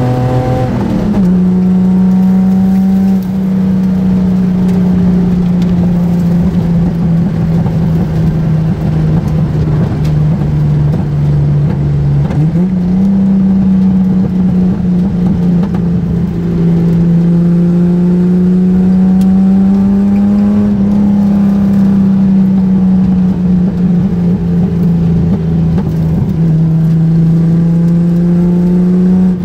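1973 Datsun 240Z straight-six running at moderate, fairly steady revs through an old exhaust system, heard from inside the car on a calm track lap. Its pitch drops sharply about a second in, as with a gear change, sags and picks up again around the middle, then rises and falls gently.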